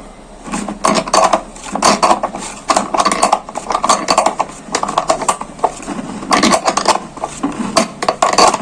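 A nut being tightened onto a bolt to fix a fan in place, giving repeated short bursts of clicking and scraping, roughly two a second.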